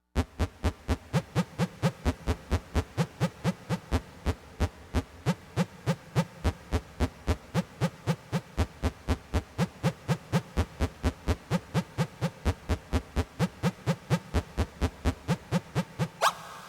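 Roland MC-707 groovebox Zen-Core synth preset playing a fast, even run of short notes, about four a second, whose low notes bend in pitch. Near the end a rising sweep sounds and the tone fades out.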